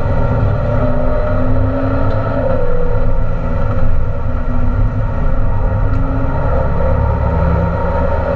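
Renault Clio RS Trophy's turbocharged four-cylinder engine running hard at speed, heard from inside the cabin. It is loud and continuous, with the engine note shifting up and down.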